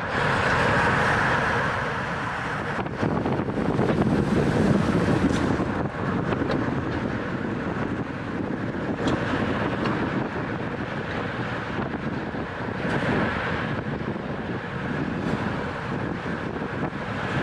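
Steady wind rushing over the microphone of a camera on a moving road bike, swelling and easing with the airflow.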